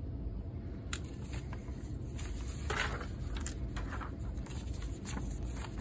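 Paper handling: a few light taps and a brief rustle about three seconds in, as a kit's decal sheet and instruction booklet are picked up and turned over, over a steady low hum.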